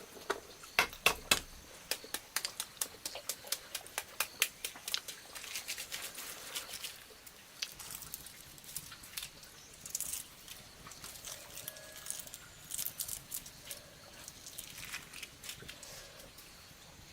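A rapid series of crisp clicks and crackles, dense for the first several seconds, then thinning out to scattered clicks.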